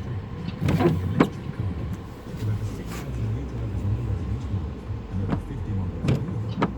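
Car driving in a storm, heard from inside the cabin: a steady low rumble of engine and road noise, broken by several short sharp knocks at uneven intervals.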